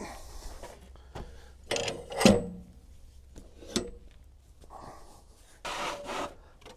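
Sawn ash boards being handled: a few wooden knocks, the loudest about two seconds in, and a short rubbing scrape near the end.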